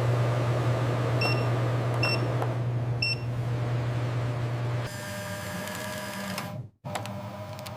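Automated bag-sealing and labelling machinery running with a steady low hum. Three short electronic beeps come about a second apart. About five seconds in, the machine sound changes to a different, thinner tone and cuts out for an instant near the end.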